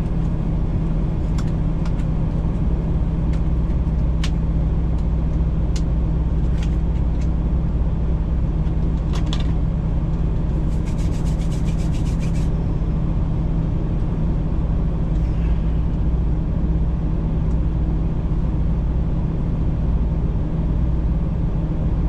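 Road-train prime mover's diesel engine and drivetrain running steadily at highway cruise, heard from the cab as a constant low drone. A few sharp clicks are scattered through it, and a short rapid rattle comes about halfway through.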